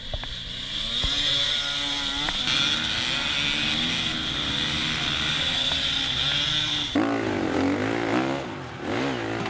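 Dirt bike engine revving up and down, its pitch rising and falling again and again, growing louder and more rapidly wavering about seven seconds in.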